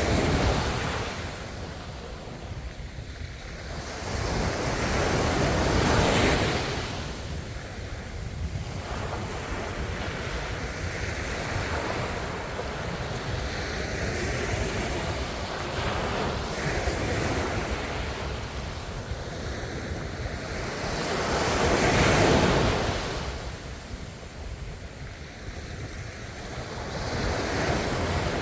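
Ocean waves washing in, a steady wash of surf that swells up loudly about six seconds in and again about twenty-two seconds in, with smaller surges at the start and near the end.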